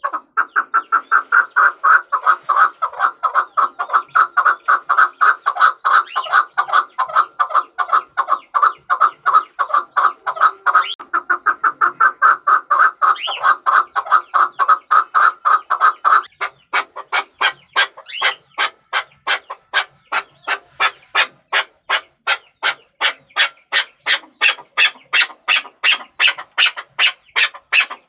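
Chukar partridge calling: a long, rapid series of short clucking notes, several a second. About sixteen seconds in, the notes change to sharper, higher-pitched ones that continue at a similar pace.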